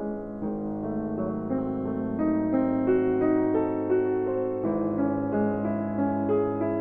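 Background piano music: a slow melody of held notes over a steady low note.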